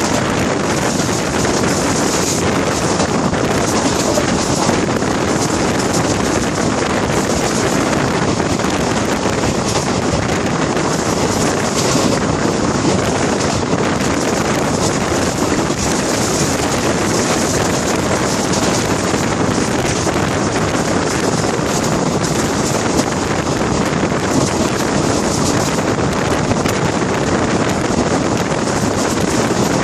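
Steady loud rush of wind buffeting the microphone held out of a moving train's window, with the train's running noise beneath it.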